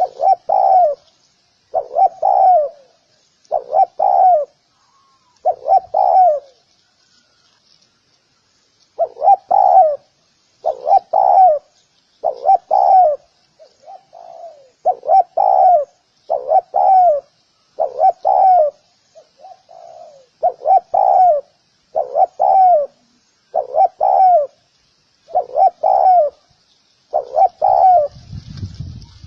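Spotted dove calling: its cooing phrase repeated over and over, about one every second and a half, with a short pause in the first third. Faint chirps of small birds sit behind it, and a brief low rumble comes near the end.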